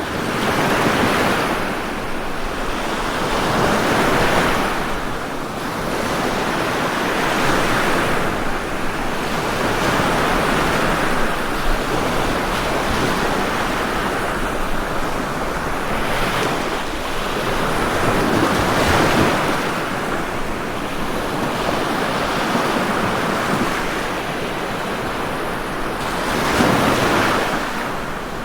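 Ocean surf: waves breaking and washing in continuously, swelling and ebbing every few seconds.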